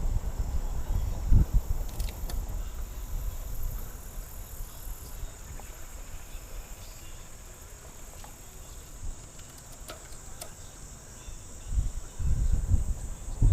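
Insects buzzing in a steady high-pitched drone, with wind buffeting the microphone in gusts at the start and again near the end.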